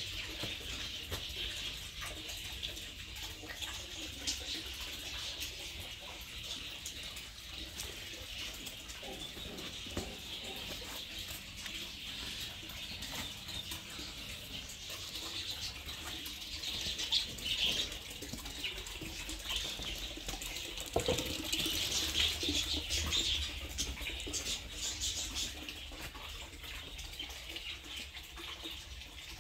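Birds chirping and twittering over a steady hiss, the calls busier in the second half.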